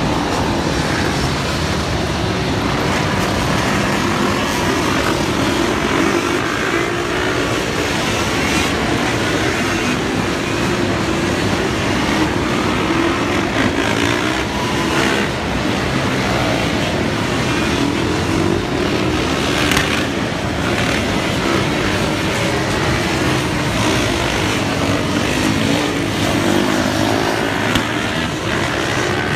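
A pack of ATVs and dirt bikes riding past, many small engines running and revving at once, their overlapping notes rising and falling.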